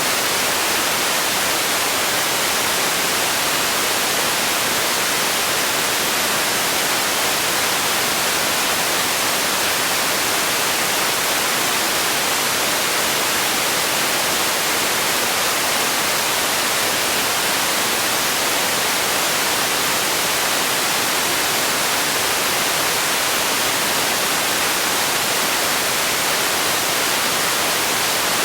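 Steady, unchanging hiss of generated noise for sleep, weighted toward the high end with little low rumble.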